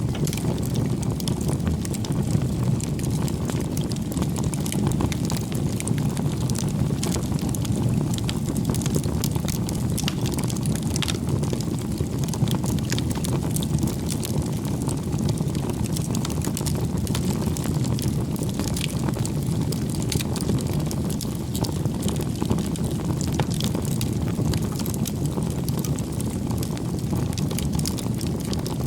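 Bonfire of firewood burning: a steady low roar of flames with frequent small crackles and snaps throughout.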